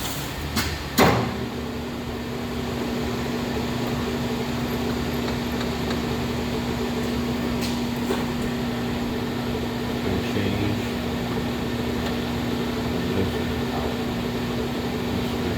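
JET GH-1440ZX geared-head lathe: a sharp clunk about a second in, then the geared headstock running with a steady hum.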